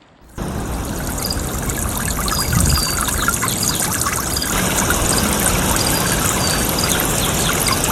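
Rushing water, a steady full rush that begins abruptly and cuts off sharply at the end.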